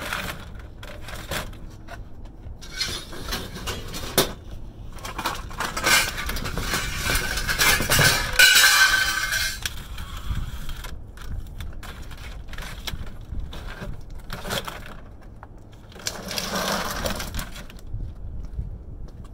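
Scrap metal clinking, knocking and rattling as it is handled, with a longer rush of jangling and scraping about six to ten seconds in.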